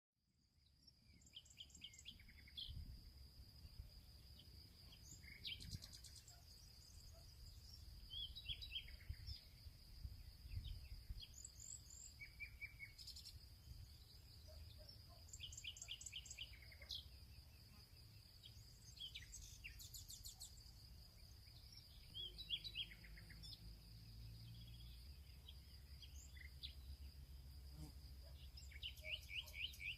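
Several small birds chirping and trilling in short, overlapping calls in a field, over a steady high-pitched insect drone and a low rumble underneath. The sound fades in at the start.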